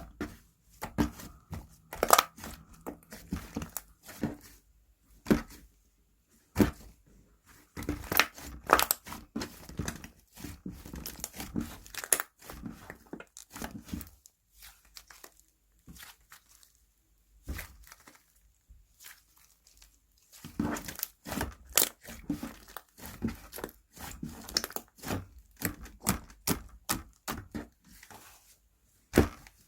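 Slime being squished, pressed and stretched by hand, giving irregular sticky crackles, pops and clicks in uneven clusters with short pauses between them.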